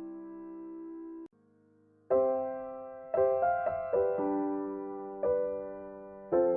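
Background piano music: a held chord cuts off about a second in, a brief near-quiet gap follows, then new chords are struck roughly once a second, each fading away after it is played.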